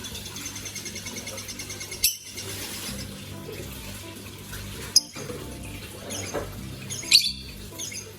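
A small pet bird chirping: a fast run of repeated high notes at first, then three loud, sharp single chirps a few seconds apart.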